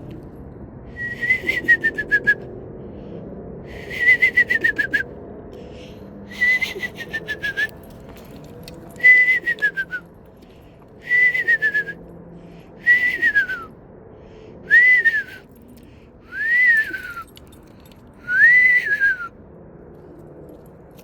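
A person whistling an imitation of a screech owl's whinny call, nine times over. Each call lasts about a second, quavers rapidly and slides down in pitch, with about a second's pause between calls.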